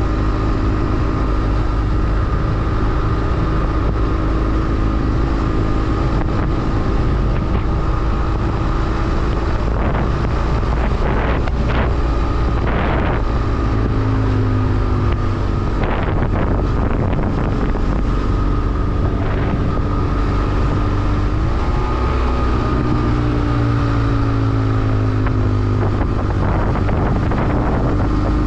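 BMW F800R parallel-twin engine running under way, its note rising and falling with changes in engine speed, with wind rushing over the microphone.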